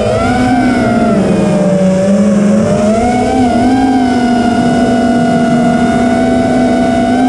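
Quadcopter drone's motors and propellers whirring loudly in flight. The pitch wavers slightly for the first few seconds, then holds steady.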